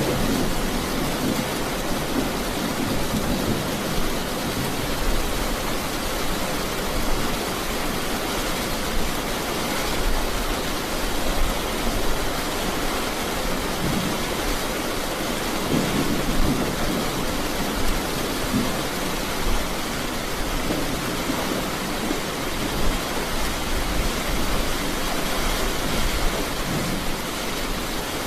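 Steady rain, an even hiss, with a low rumble swelling a few times underneath.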